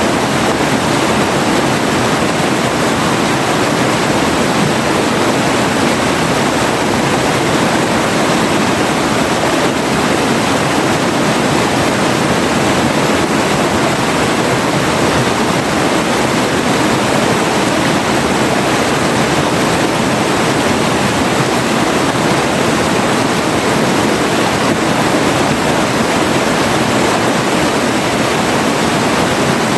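River water flowing, a steady even wash of water sound with no change.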